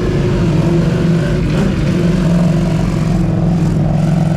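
A vehicle engine running steadily at a near-constant pitch.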